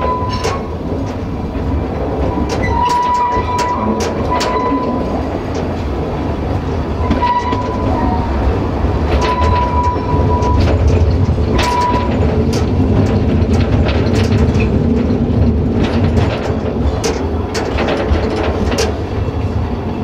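A train running on jointed track: a steady low rumble with repeated knocks from the rail joints. A high steady tone sounds in several short pieces during the first twelve seconds or so.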